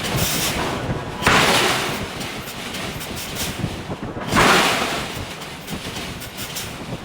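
Giant hydraulic forging hammer working steel, striking twice about three seconds apart. Each stroke is a sudden loud hit that fades over about a second, over continuous shop rumble.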